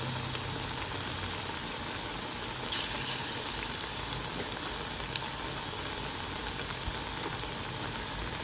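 Batter-coated leaf fritters (bora) sizzling steadily in hot oil, with a brief louder flare of sizzling about three seconds in.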